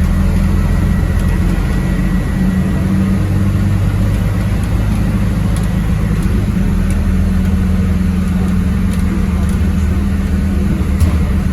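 MAZ-206 city bus's diesel engine running with a steady low drone as the bus drives, heard on board.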